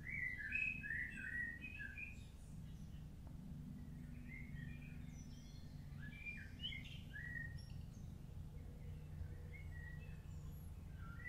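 Wild birds chirping and singing, a quick run of short chirps at the start and another a few seconds in, over a steady low hum.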